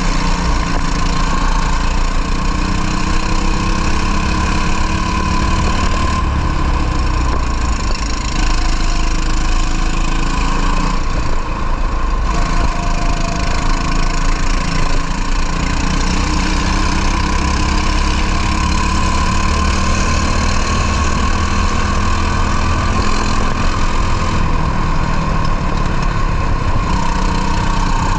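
Racing kart engine running hard at race pace, its pitch climbing and falling as it accelerates and eases off, with short lifts off the throttle a few times.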